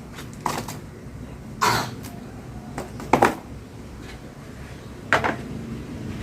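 Plastic parts of an exhaust fan knocking and clacking as the fan is fitted back together. About four or five separate knocks; the loudest is a quick double knock about three seconds in.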